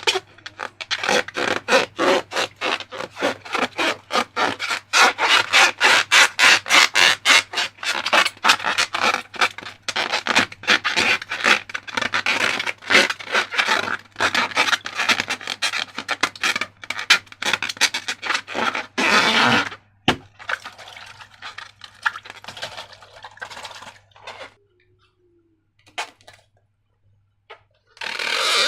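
Slime being mixed with quick, repeated scraping strokes, several a second. About two-thirds of the way through the strokes stop, leaving a few scattered rubs.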